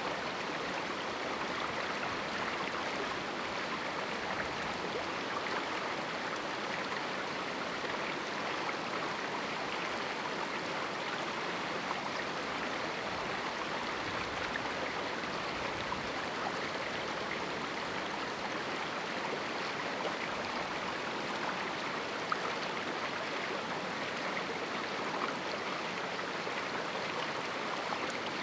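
A small canyon river running, a steady, unbroken rush of water.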